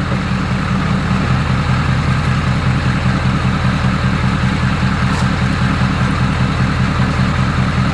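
Ford Power Stroke V8 diesel engine in a rebuilt F-250 running steadily, with an even, fast low clatter. It is freshly started for the first time after the rebuild.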